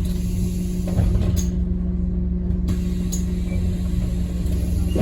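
Scania N230UD OMNICity bus's five-cylinder diesel heard from inside the cabin, running steadily at an even pitch over a low rumble, with a few light clicks.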